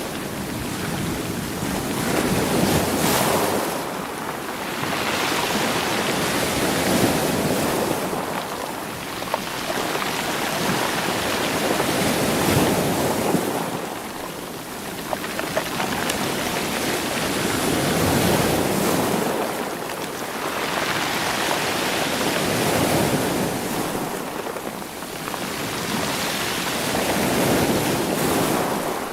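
Sea waves surging against rocks and washing over loose stones, the stones rolling and clattering in the backwash. The surf rises and falls in slow swells about every five seconds.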